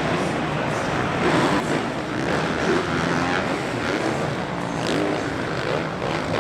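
Dirt bike engines revving up and down as they race, heard as a dense, continuous wash.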